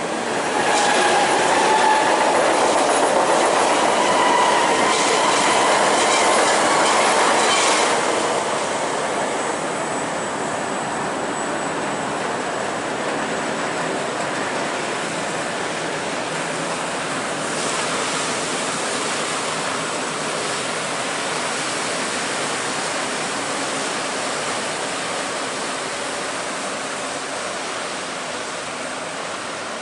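Train crossing a steel railway bridge, with wheels clattering and squealing loudest for the first eight seconds or so, then a steadier, quieter rumble as it rolls on.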